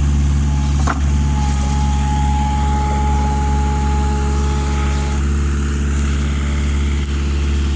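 Engine idling steadily with a deep, even note and no revving, with a thin steady whine over it for a few seconds.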